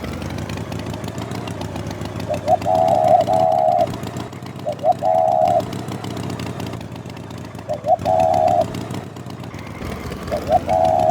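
A motor vehicle's engine running steadily while a horn sounds four times, each time two quick beeps and then a longer held tone, about every three seconds.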